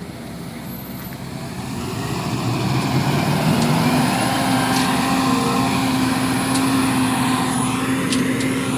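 Diesel engine of heavy machinery revving up over a couple of seconds, then holding steady at high revs under load. A few light clicks sound over it.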